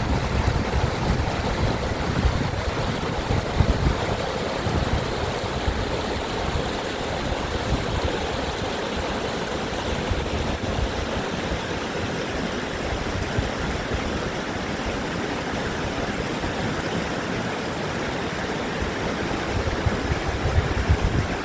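Mountain valley stream rushing steadily over rocks, a continuous even wash of water noise.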